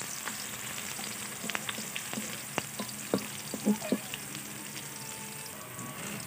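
Chopped garlic and red onion sizzling in hot cooking oil in a pan, sautéed until the onion turns slightly reddish. A utensil stirring them clicks and scrapes against the pan now and then, with the loudest knocks bunched a little past the middle.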